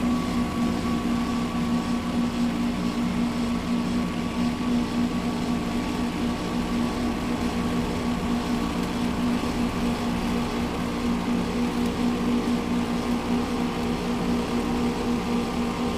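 Washing machine drain pump running with a steady, even hum and a fainter high tone above it; the pump has been repaired.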